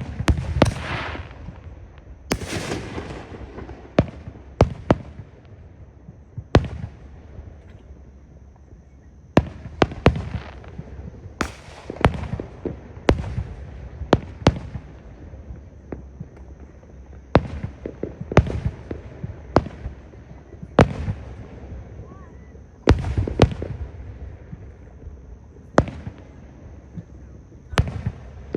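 Aerial fireworks shells bursting: about twenty sharp bangs at irregular intervals, mostly a second or two apart and sometimes in quick pairs. A few bursts near the start and again a little before the end trail off for a second or so after the bang.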